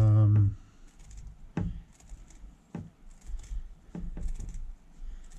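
A short low hum at the start, then a few scattered light knocks and clicks as a rubber replacement drive belt is handled and cut to size.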